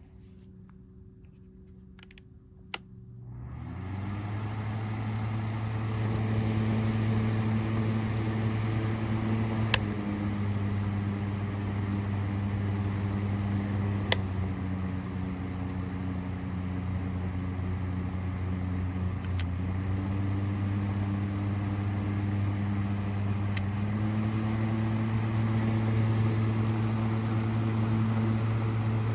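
Honeywell HT900C TurboForce desk fan switched on with a click about three seconds in, its motor hum and airflow rising over a second or so to a steady run. A few more sharp clicks follow, and the hum shifts slightly in pitch after some of them, near the end rising a step.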